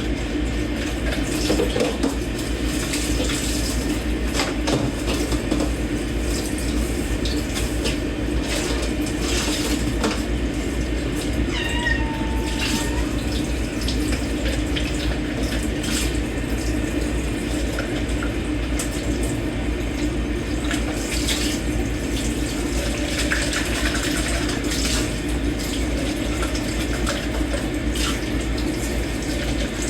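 Dishes being washed by hand in a kitchen sink under a running tap: steady rushing water with scattered clinks of dishes and cutlery. A cat meows once in the background, about twelve seconds in.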